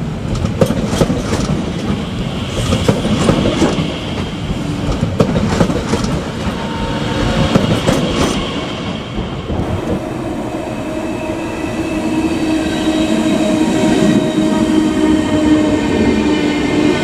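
A train running on the tracks, its wheels clattering over rail joints with rapid clicks for the first half. About halfway through the clatter eases and a steady, several-toned whine builds up and carries through to the end.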